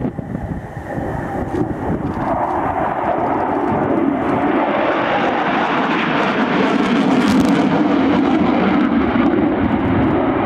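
Aircraft engine roar building as an aircraft flies past, growing louder from about two seconds in and loudest a little after the middle. Wind buffets the microphone at the start.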